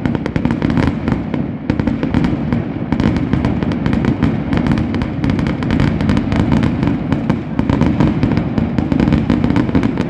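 Fireworks going off in a continuous rapid barrage: many sharp bangs and crackles a second, without a break, over a low rumble.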